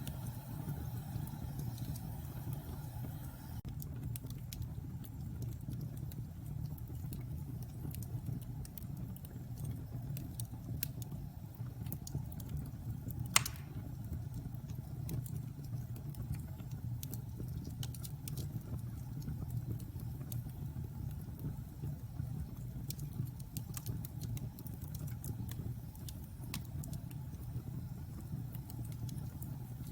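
Wood fire burning in a fireplace: a steady low rumble with scattered small crackles and one loud pop about halfway through.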